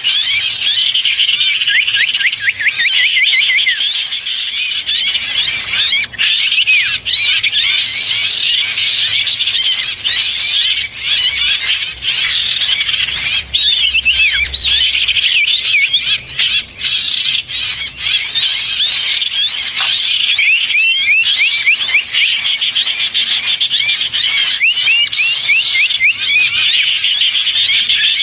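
Dense, noisy chorus of many small songbirds calling at once: a continuous tangle of rapid chirps and short sweeping notes. It is a bird-lure recording of excited small-bird chatter, meant to draw in wild small birds such as bulbuls.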